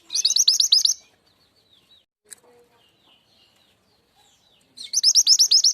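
Mantenan gunung (truntung weru) bird calling: a quick, high run of about eight sharp hooked notes just after the start, repeated near the end, with faint chirps between.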